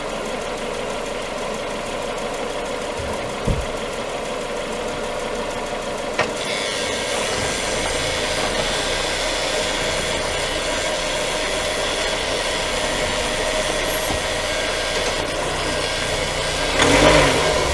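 Running gear of a 2020 Renault Duster on the move, picked up by a microphone clipped to the front subframe, with a steady high squeal that comes in about six seconds in. The squeal comes from the dust boot of the left driveshaft's inner CV joint rubbing where the shaft enters the automatic gearbox once it has warmed up. Two short knocks and a louder burst of noise near the end.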